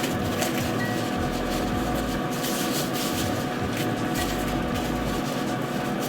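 Steady machine hum of a running kitchen appliance, with light rubbing and handling noises over it.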